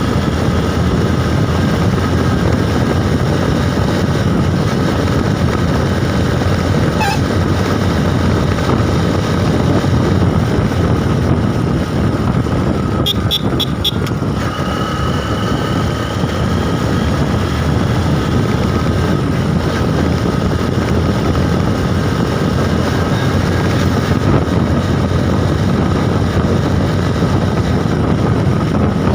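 Motorcycle running at riding speed, a loud steady rumble mixed with wind rushing over the microphone. About halfway through there is a quick run of four short high beeps.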